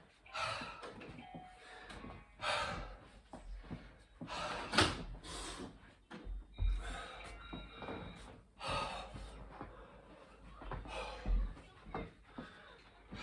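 Hard, gasping breaths of a man deep into a high-rep burpee set, coming every second or two, with dull thumps as he drops to the floor and jumps back up.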